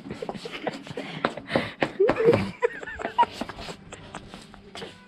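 Scattered clicks and knocks, with brief snatches of voice around the middle.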